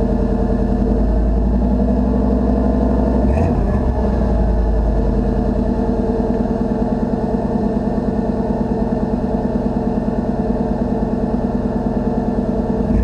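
A 1991 Chevy pickup's engine idling steadily while it warms up after a cold start in 10-degree weather, with a short knock about three and a half seconds in.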